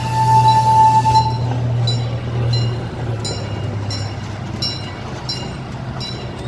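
Park miniature train, a one-third scale C.P. Huntington replica, running along its track with a steady low engine hum and regular clicking about one and a half times a second. A high, steady squeal sounds for about the first second and a half.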